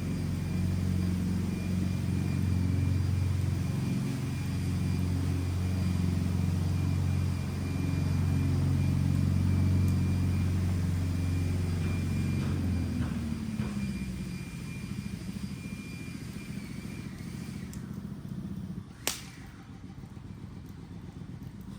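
A low, steady engine hum that slides down in pitch and fades away about thirteen seconds in, leaving a quieter background. One sharp click sounds near the end.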